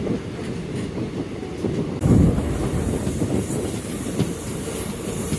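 Passenger express train running, heard from on board: a steady rumble with wheels clacking over the rail joints. About two seconds in it suddenly grows louder, with a hiss added on top.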